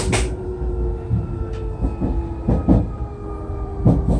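Nankai Airport Line electric train running, heard from inside the carriage: a steady low rumble with a faint steady whine. The wheels knock over rail joints several times, in quick pairs about two and a half seconds in and again near the end.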